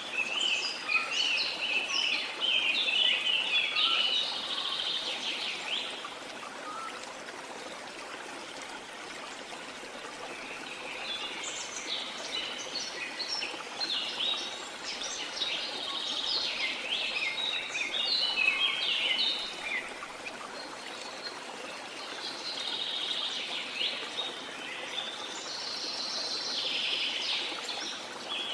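Several birds singing and chirping in busy bouts over the steady rush of flowing water. The song comes in three spells, about a second in, around eleven seconds in and again near the end, with quieter stretches of water between.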